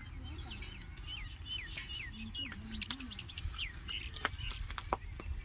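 A small bird calling with a quick series of short, falling chirps, over a steady low rumble. A couple of sharp clicks come near the end.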